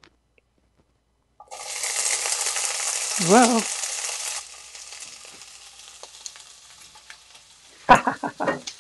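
Diced red bell pepper hitting hot olive oil in a nonstick frying pan, sizzling loudly about a second and a half in, then settling after a few seconds to a quieter steady sizzle. A short voice sound rising in pitch comes in the middle, and a few sharp knocks come near the end.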